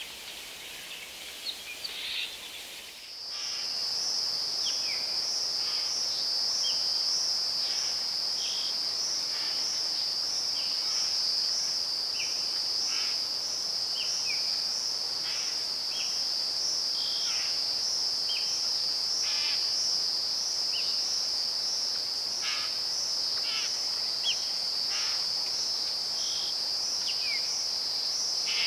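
A steady, high insect chorus with a slight pulse starts abruptly about three seconds in. Short bird chirps and whistles are scattered over it. Before the insects come in, there are only a few seconds of busier bird calls.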